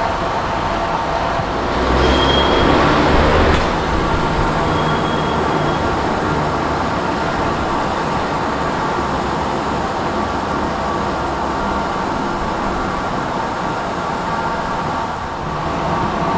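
Preserved vintage rail vehicle running, a steady mechanical noise with a louder surge about two seconds in that lasts about a second and a half.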